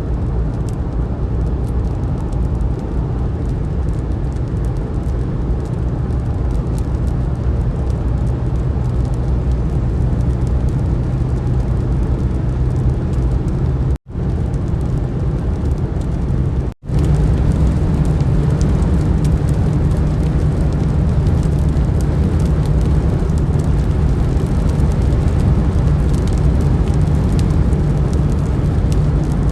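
Car driving along a road: a steady engine and road-noise drone heard from inside the car, cut to silence twice for a moment past the middle, after which the drone is a little louder.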